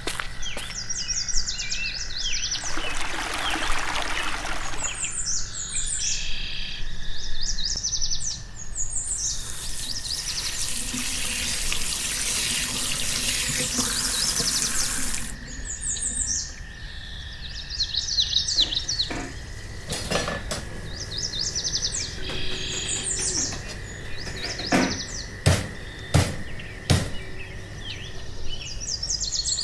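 Small birds chirping in short repeated phrases, with two stretches of running water, the longer one midway. A few sharp knocks sound near the end.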